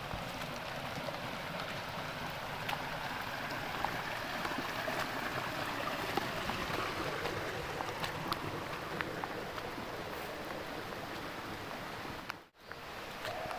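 Heavy rain falling steadily, with scattered sharp drips and splashes over the hiss. The sound drops out for a moment near the end.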